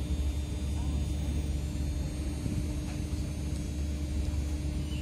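Steady hum and low rumble of a stationary passenger train waiting at the platform, with faint voices from passengers crowding aboard.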